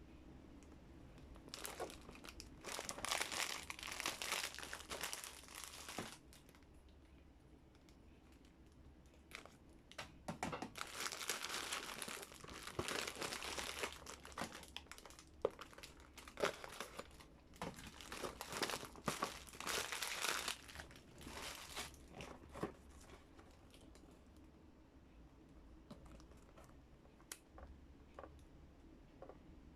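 Packaging being crinkled and torn open by hand, in two long stretches of rustling and tearing with a quieter pause between them.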